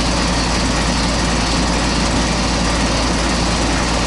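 Goodman CKL61 three-ton air-conditioning condensing unit running: a steady, loud rush from the condenser fan over a constant low compressor hum.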